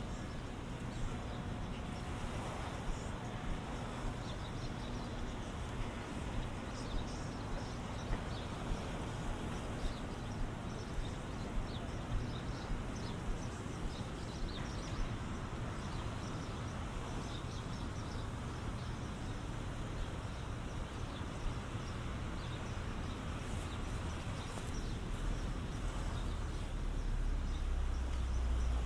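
Ocean waves washing on the beach as a steady hush, with footsteps at a walking pace, about one a second, through the first half. Wind buffets the microphone with a low rumble near the end.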